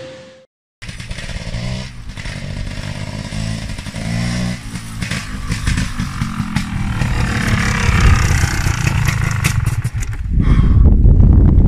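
A beep tone fades out, then after a moment of silence a 250cc Gas Gas Pampera off-road motorcycle engine revs up in short rises near 2 and 4.5 seconds and runs on hard and rough, louder near the end.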